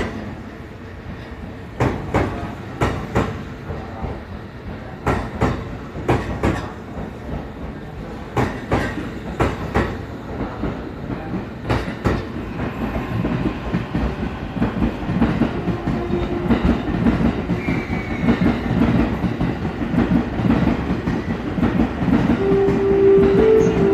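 Electric commuter train rolling slowly past along a platform, its wheels clacking over rail joints in regular pairs. About two-thirds of the way through, the clacks run together into a louder, steadily rising rumble, with a motor whine climbing in steps near the end as the train picks up speed.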